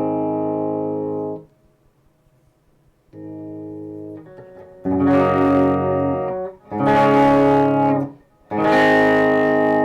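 Electric guitar with Fleor Alnico 5 two-wire humbucker pickups, playing chords that ring out: a ringing chord is cut off about a second and a half in, a quieter chord follows a short pause, then three louder strummed chords come about two seconds apart.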